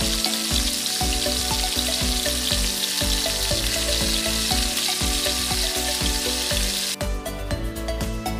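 Corn and yardlong beans cooking in a covered pot on a gas burner, giving a steady sizzling hiss that cuts off suddenly about seven seconds in. Background music with a regular low beat plays throughout.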